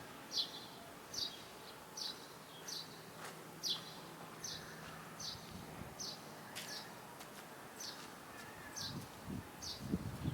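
Eurasian tree sparrow chirping: short, falling chirps repeated about once a second, faint against outdoor background noise. Low rustling comes in near the end.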